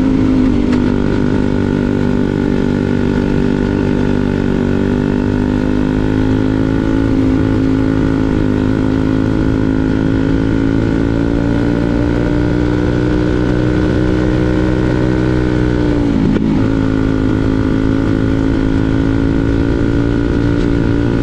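Briggs & Stratton 206 Super Stock kart engine, a single-cylinder four-stroke, running hard at high revs. Its pitch climbs slowly, dips sharply for a moment about sixteen seconds in, then comes back up.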